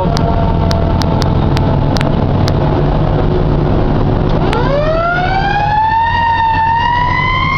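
Fire engine's engine running steadily with a few sharp clicks, then about halfway through its siren starts and winds up in pitch, holding a high wail near the end.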